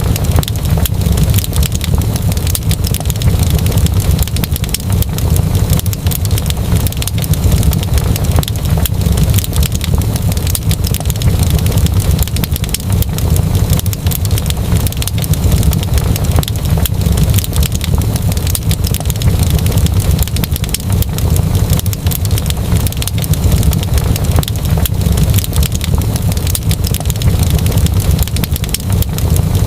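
Wood fire crackling: dense, irregular pops and snaps over a steady low rumble.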